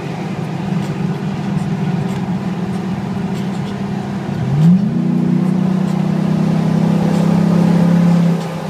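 Truck engine heard from inside the cab, running steadily, then rising in pitch about four and a half seconds in as it accelerates, holding at higher revs and easing off near the end.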